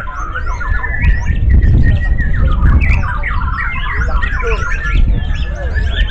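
Several white-rumped shamas (murai batu) singing at once, a dense tangle of overlapping whistles, chirps and quick trills, over a steady low rumble.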